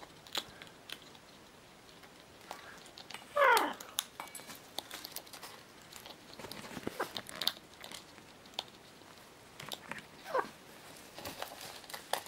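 Pet macaw giving two short calls that slide downward in pitch, a louder one about three and a half seconds in and a fainter one near ten seconds, amid scattered clicks and taps.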